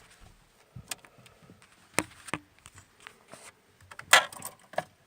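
A few scattered sharp clicks and knocks, the loudest about four seconds in, with no engine running.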